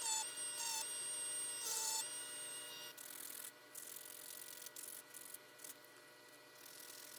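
Tool work on wood: a tool whines in stops and starts for about three seconds, then fainter rubbing and scraping over a steady hum fades away.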